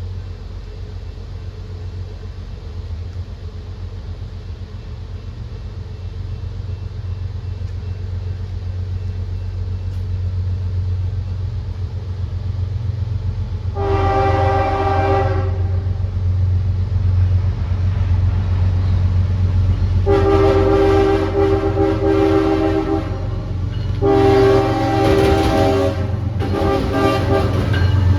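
Approaching diesel locomotive, its low engine rumble growing steadily louder, sounding its air horn: a brief blast about halfway through, then two long blasts, a short one and another long one, the grade crossing signal.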